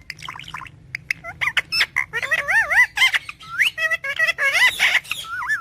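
A parrot chattering: a rapid string of warbling whistles that swoop up and down in pitch, mixed with squeaks and clicks.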